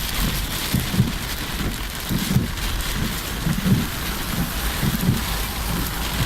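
Heavy rain falling in a steady hiss, with irregular low bumps about every second.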